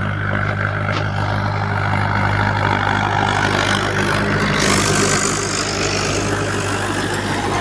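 Mahindra 575 tractor's diesel engine running steadily, with a broad noise over it that grows brighter about halfway through.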